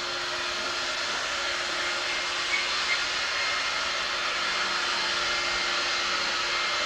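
A steady hiss with a constant low hum under it, like a running motor or fan, and two faint ticks about halfway through.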